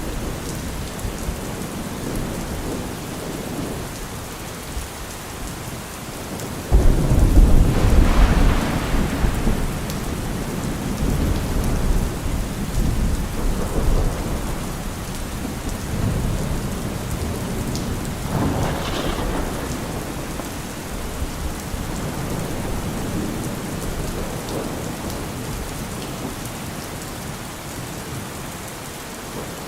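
Steady rain falling on trees and leaves. About seven seconds in, a sudden deep rumble breaks in and rolls on for several seconds, and weaker rumbles follow later.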